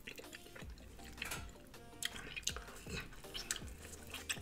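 Close-miked mukbang eating: quiet wet chewing with many small mouth clicks and smacks as buttered food is bitten and chewed.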